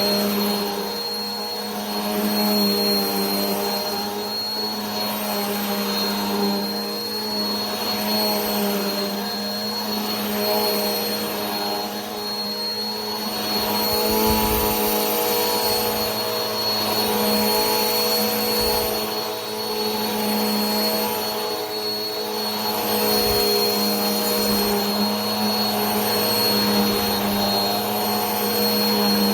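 Vacuum cleaner motor running steadily: a low hum and a thin high whine over rushing air. The rush swells and eases gently about every two seconds.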